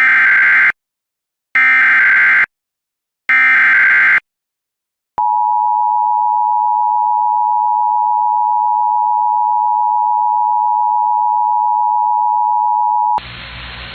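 Emergency Alert System alert tones. Three short, screeching bursts of SAME digital header data come about a second and a half apart. After a click about five seconds in, a long, steady attention-signal tone sounds for about eight seconds, then cuts off and gives way to a hiss.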